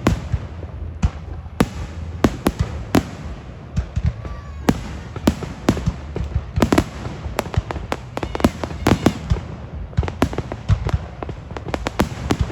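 Fireworks display: many sharp bangs of bursting shells in quick, irregular succession over a continuous low rumble.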